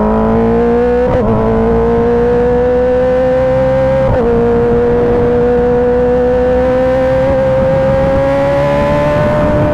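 Kawasaki ZX-10R's 1000 cc inline-four engine pulling under acceleration, its pitch climbing steadily. Two quick gear changes break the note, about one and four seconds in.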